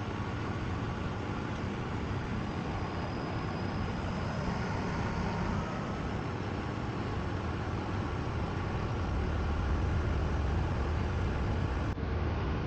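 Miele WKG 130 WPS washing machine running, likely spinning, a steady deep hum with a faint whine, its worn shock absorbers now replaced with new ones.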